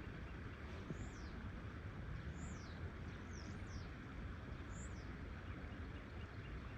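A songbird repeating a short high whistle that slides down in pitch, about five times at roughly one-second intervals, over the steady rush of a flowing river.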